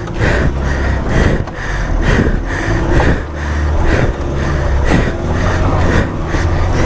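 Off-road 4x4's engine running hard under load, its level rising and falling a little as the vehicle is driven and pulled over an obstacle.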